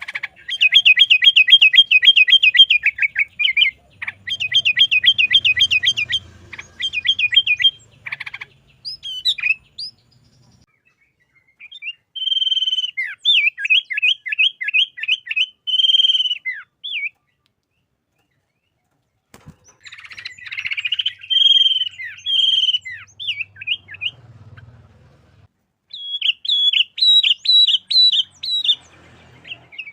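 Sooty-headed bulbul (kutilang) singing vigorously in phrases of rapidly repeated, high chirping notes, separated by pauses of a second or two.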